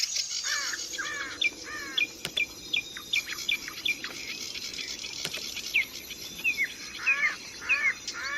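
A songbird repeating short, bent whistled notes, about two or three a second, over a steady high buzz like insects.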